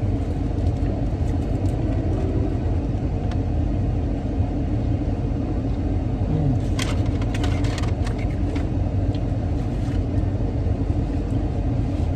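Steady low rumble of an idling car heard from inside the cabin, with a couple of seconds of crinkling and rustling near the middle.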